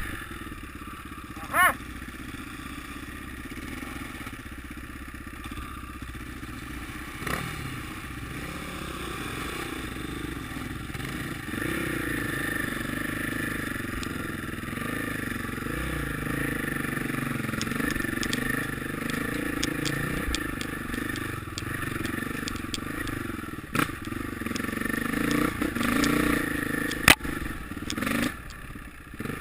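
Motocross dirt bike engines running, their pitch rising and falling as they rev. A short, loud high tone sounds about two seconds in, and a sharp crack comes near the end.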